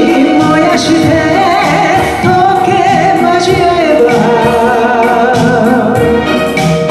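A woman singing a Japanese kayō ballad over instrumental backing, with long notes held with vibrato.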